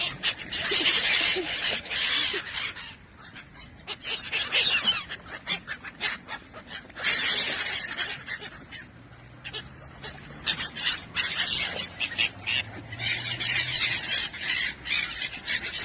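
Birds squabbling, with a dense, noisy run of squawks and scuffling. It comes in loud stretches with quieter gaps.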